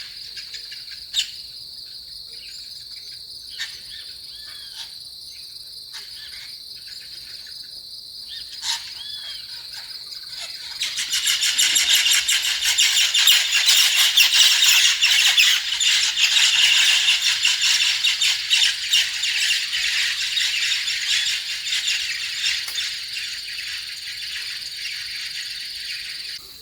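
Insects singing in a forest: a steady high-pitched drone, joined about eleven seconds in by a much louder, rapidly pulsing buzz that slowly fades toward the end. Birds chirp now and then in the first half.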